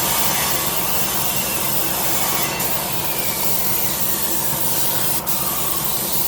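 Electric sander running steadily against a wooden surface.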